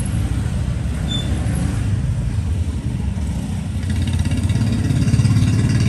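Road traffic: motor vehicles running steadily, with one swelling louder toward the end as it passes close.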